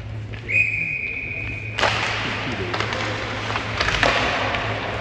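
A referee's whistle blows one steady high note for about a second and a half. Then a sudden loud wash of noise with scattered knocks comes in.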